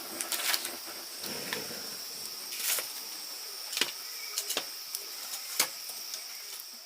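Steady high-pitched chirring of insects, with several sharp clicks and knocks scattered over it, the loudest about five and a half seconds in.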